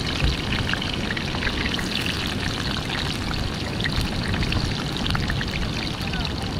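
Slices of breadfruit sizzling in hot oil in a frying pan set on campfire coals: a steady hiss sprinkled with many small crackles and pops.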